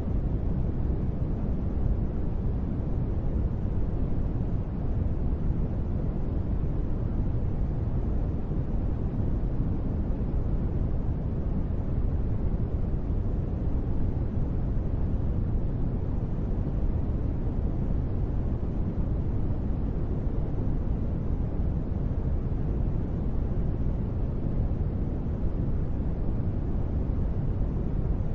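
Steady white noise of a rain ambience, deep and even throughout, weighted toward the low end, with no separate drops or thunder standing out.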